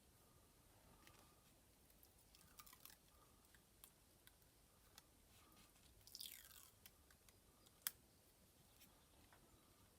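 Faint crackling of masking tape being slowly peeled off a painted canvas, with scattered small ticks, one longer tearing peel about six seconds in and a sharp click near eight seconds.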